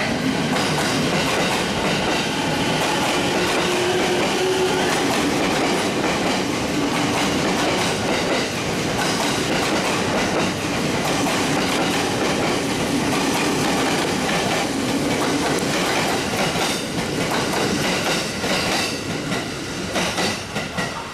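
Stainless electric commuter train running past the platform, with a steady rumble and its wheels clicking over rail joints, the clicks more marked near the end.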